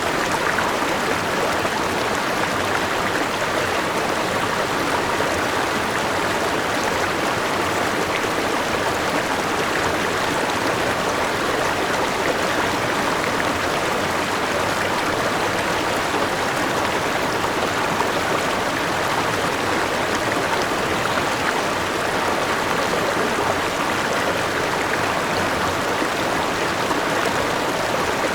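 A forest river rushing steadily over a small waterfall, a continuous even wash of flowing water.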